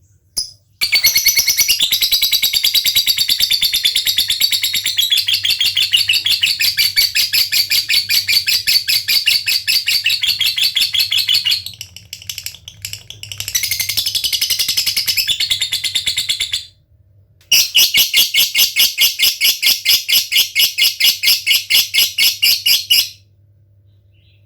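Male fighter lovebird chattering its long "ngekek" call: a rapid high trill lasting about ten seconds, a brief break, a shorter burst, then a slower evenly pulsed run of about five notes a second that cuts off abruptly near the end.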